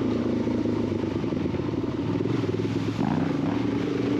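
Dual-sport motorcycle engine running under way on a dirt trail, its note steady, then dropping briefly about three seconds in as the throttle eases and rising again.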